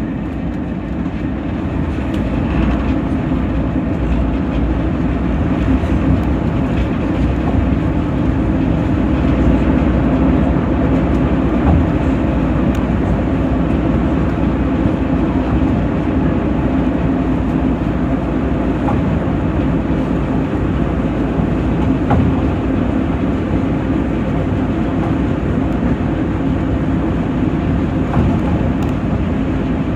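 Diesel locomotive D4107, a Class 09 shunter, hauling a train, heard from on board: a steady engine drone over the rumble of wheels on the track, growing a little louder in the first couple of seconds.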